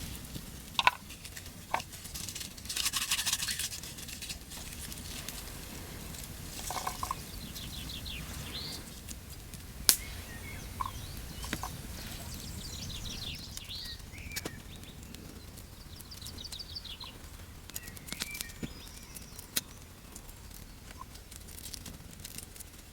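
Outdoor ambience: birds chirping in short, quick trills, with scattered sharp clicks and taps and a brief rustle about three seconds in.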